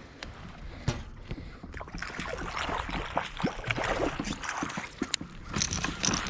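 Water sloshing and gurgling around a kayak, with scattered small clicks and knocks, getting louder about two seconds in.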